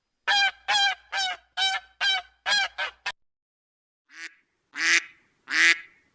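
A goose honking rapidly, about seven sharp honks in a row, as a sound effect. After a second's pause, a duck begins quacking in lower, slower calls, about one a second.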